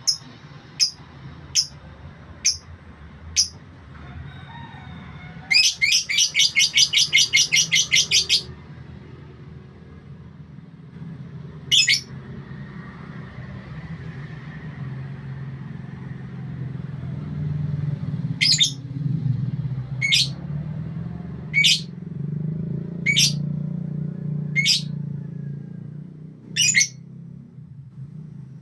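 A songbird giving sharp, high single chirps, about a second apart at first and then every second or two, with one rapid trill of about fifteen quick notes lasting nearly three seconds. A steady low hum runs underneath.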